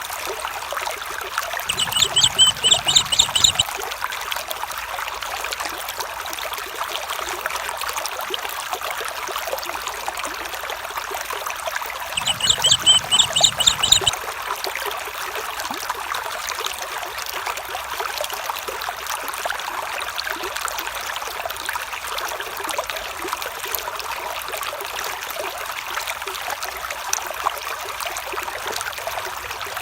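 A stream trickling and babbling steadily. Twice, about two seconds in and again about twelve seconds in, an animal gives a short call of rapid pulses, each call lasting about two seconds.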